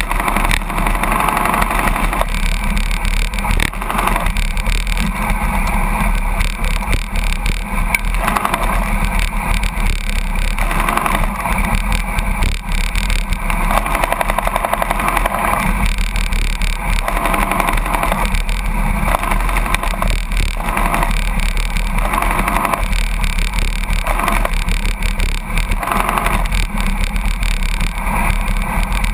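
Steady wind rushing over the microphone, mixed with truck and road noise, from a bicycle drafting close behind a truck at about 82 km/h.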